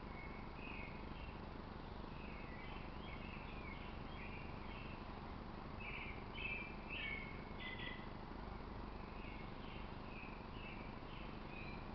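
Small birds giving short, irregular chirps and twitters over a steady background hum of outdoor noise; the calls are a little louder and busier about six to eight seconds in.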